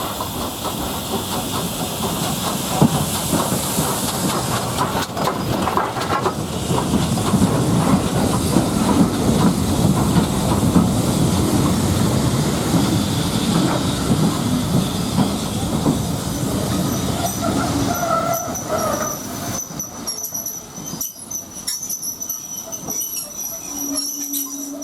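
A steam-hauled train running past: carriages rolling over the rail joints with a clickety-clack and steam hissing. It is loudest about halfway and dies away, with thin high squealing tones near the end.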